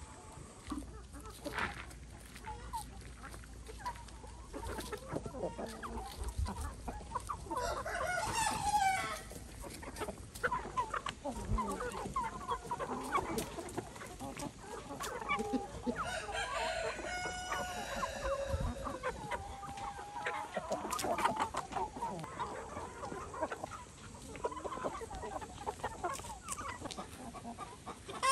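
Chickens clucking and calling in many short notes, with two longer, louder calls about eight and sixteen seconds in.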